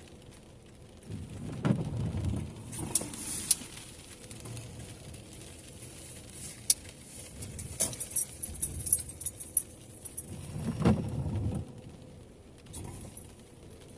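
Car keys jangling with scattered sharp clicks, and two dull thumps about two seconds in and again near eleven seconds.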